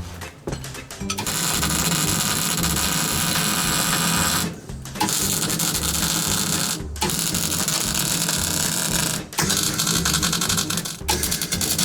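Background music over a loud, harsh metalworking noise that starts about a second in and runs in stretches of about two seconds, each broken by a brief pause.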